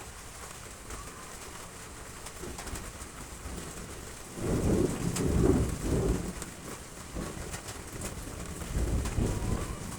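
Heavy rain hitting roof tiles, a steady hiss with fine drip ticks. A louder, low, pulsing sound comes in twice, a long stretch in the middle and a shorter one near the end.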